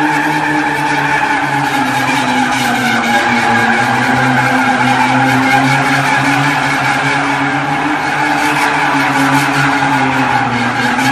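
Car drifting: the engine held at steady high revs while the rear tyres squeal and skid continuously.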